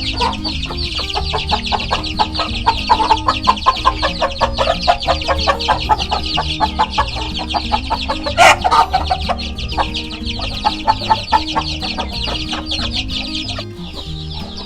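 Chicks cheeping in a dense high chorus while a mother hen clucks in runs of short repeated notes, with one louder call about eight and a half seconds in.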